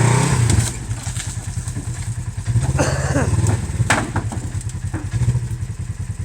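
Polaris RZR side-by-side's engine running under load, revved in short bursts near the start, again about two and a half seconds in, and briefly about five seconds in, with a few knocks and clatter in between as it climbs onto an old truck.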